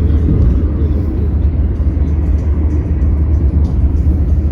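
Steady low road rumble of a car in motion, heard from inside the cabin.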